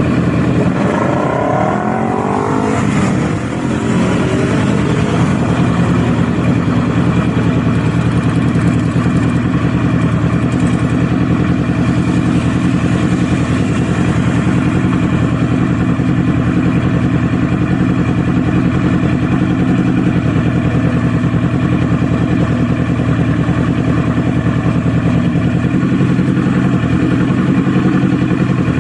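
Kawasaki Z400 parallel-twin engine and exhaust under way. The revs rise and fall through gear changes in the first few seconds, then the engine settles into a steady cruise.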